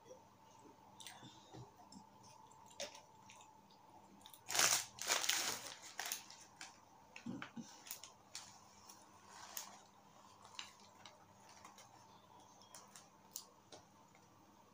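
Close-miked eating: bites and chewing of a burger, heard as many short wet mouth clicks and soft crunches. About four and a half seconds in there is a louder crackling rustle lasting over a second.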